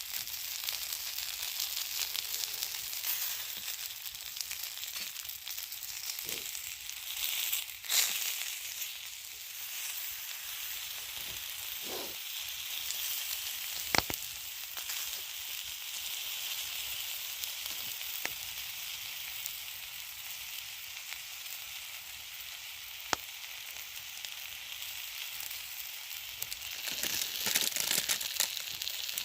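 Food sizzling on a hot cooking rock over a campfire: a steady frying hiss, broken by a few sharp pops, the loudest about 8 and 14 seconds in.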